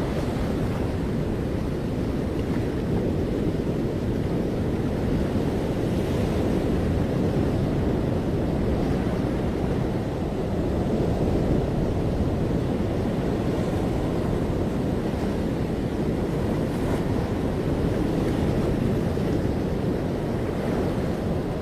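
Ocean surf washing onto a beach: a steady noise that swells and eases slowly, with wind noise on the microphone.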